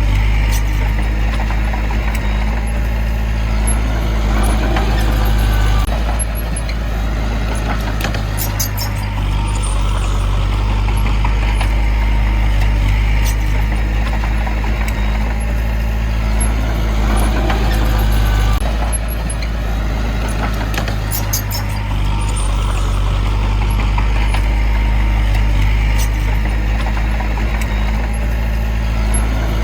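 Heavy diesel earthmoving machinery running steadily, its engine note shifting now and then, with brief high squeaks twice.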